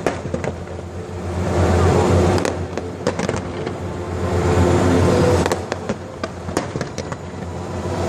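Fireworks display: two swells of rumbling bursts, then a run of sharp cracks and pops in the second half.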